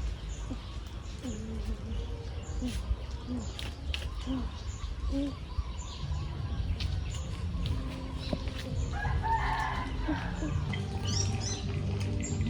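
Chickens clucking in short repeated calls, with a longer rooster crow from about nine to eleven seconds in.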